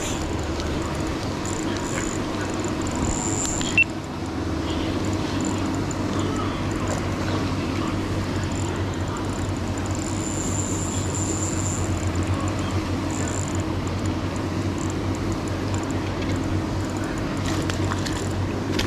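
Steady mechanical hum over outdoor noise, with one sharp click about four seconds in.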